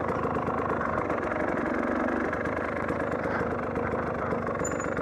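Dirt bike engine running steadily, with no revving up or down.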